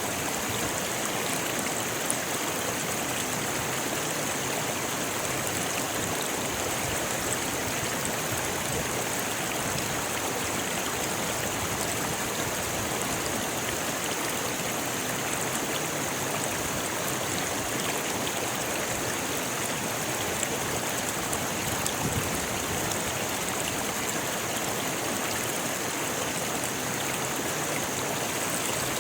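Rocky river flowing over stones: a steady, even rush of water.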